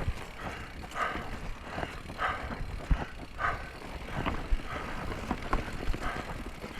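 Mountain bike being ridden over a bumpy forest trail: scattered knocks and rattles from the bike, with a regular sound that comes back about every second and a quarter.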